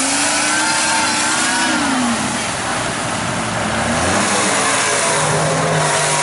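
Mud truck engine revving: its note climbs about half a second in, holds, then drops away a little after two seconds. A second, steady engine note comes in near the end, over a constant rushing noise.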